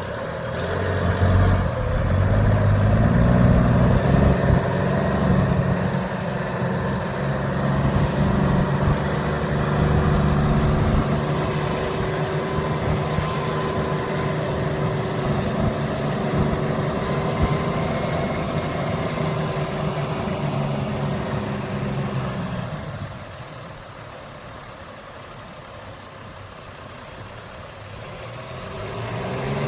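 Freightliner cabover feed truck's diesel engine idling steadily. It turns much quieter about 23 seconds in and comes back up near the end.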